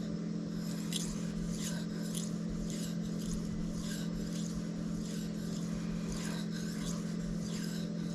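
Steel knife blade being drawn edge-first across a Shapton Kuromaku 5000-grit whetstone in a steady run of short, hissing scrapes, about one stroke every half second: edge polishing toward a mirror finish. A steady low hum runs underneath.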